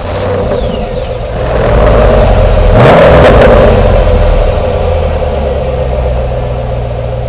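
Radio-controlled scale crawler truck driving, its motor and drivetrain running steadily, with a brief rise in pitch as the throttle opens about three seconds in.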